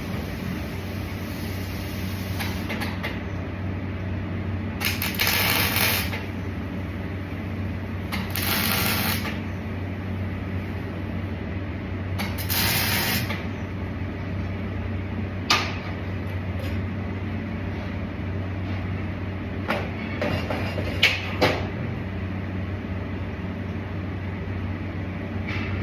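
Steady machine hum, broken by three short bursts of hiss about a second each and a few sharp clicks near the end.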